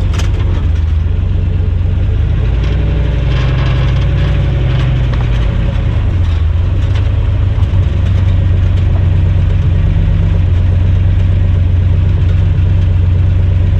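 Drag car's engine idling loudly, with a brief rise in revs a few seconds in, then running steadily and slightly louder from about halfway.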